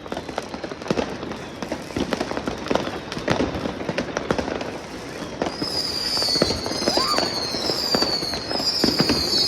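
New Year's Eve fireworks and firecrackers going off in rapid, irregular bangs and cracks. From about halfway through, a high falling tone repeats over and over above the bangs.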